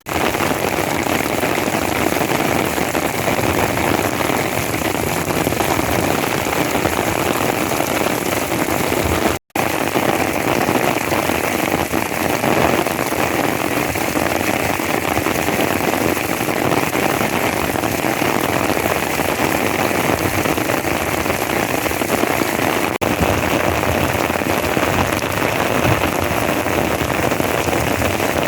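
Heavy desert downpour: steady, loud rain hissing on the ground, with a momentary dropout in the sound about nine seconds in.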